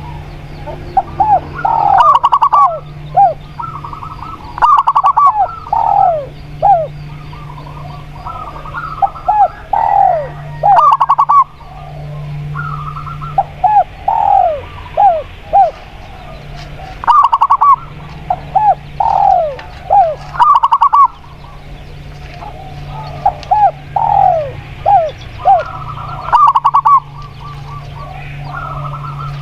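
Spotted dove and zebra dove cooing, in short phrases of quick falling notes repeated every couple of seconds.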